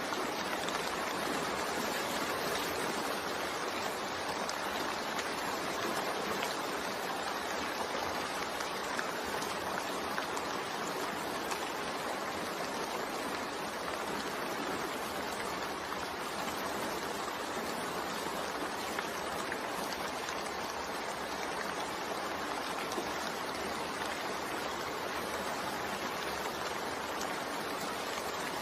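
Steady rain falling: an even, constant hiss with fine pattering drops, unchanging in level.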